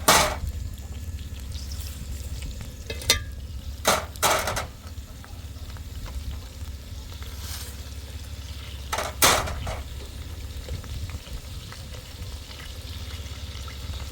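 Shovels scraping wet concrete: a handful of short, sharp scraping strokes over a steady low rumble.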